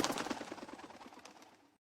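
Crackling wood fire: sharp pops and snaps over a low rumble, fading away over about a second and a half into dead silence.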